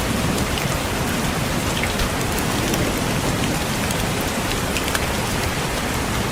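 Steady rain with scattered raindrops tapping on a window pane.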